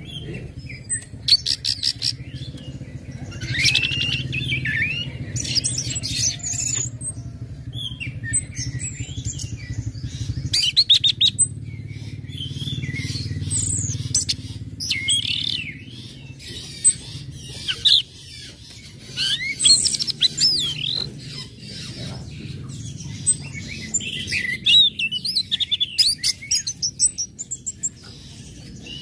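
Orange-headed thrush singing: a varied song of whistled rising and falling phrases broken by rapid chattering trains of sharp 'cit' ticks, over a low steady hum.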